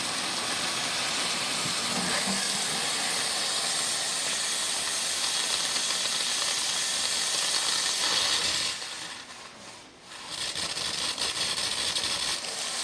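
Espresso machine steam wand hissing steadily as it releases steam for frothing. The hiss dies away about nine seconds in, then starts again a second later.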